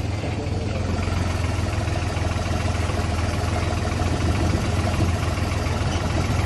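A motor vehicle's engine running steadily at idle, a constant low hum.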